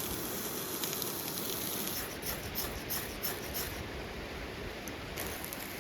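Steady outdoor noise, with a run of about five short rustling scrapes about two seconds in and one more near the end.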